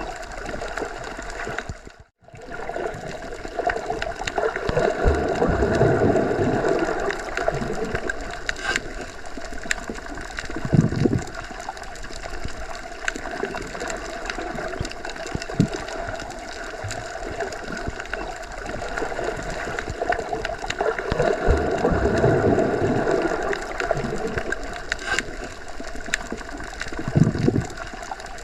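Underwater ambience as heard by a submerged listener: a steady rushing wash of water that swells twice, with a low thump after each swell. The sound cuts out for an instant about two seconds in.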